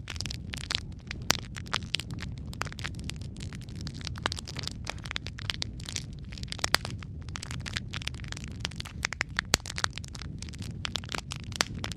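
Wood fire burning in a fireplace: steady low rumble of flames with dense, irregular crackling and occasional louder pops from the burning logs.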